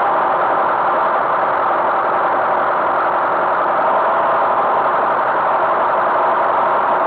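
A vehicle engine running steadily at an even speed, with a continuous drone and no change in pitch or level.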